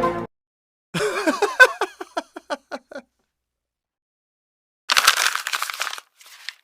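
Two short stock sound-effect clips. The first is a pitched sound that dips, then repeats in quick pulses that get shorter and fade out. The second, after a pause, is a harsh, noisy rattling burst about a second long.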